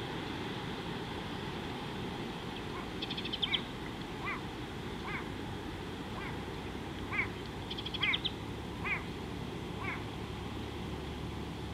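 Wild bird calls over a steady background hiss: two quick bursts of high, rapid ticking notes, and about seven short rising-and-falling calls, roughly one a second.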